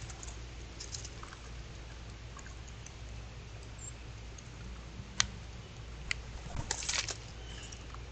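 Scattered small taps and clicks over a steady low hum and hiss, with a sharp tap about five seconds in and a quick flurry of clicks near seven seconds.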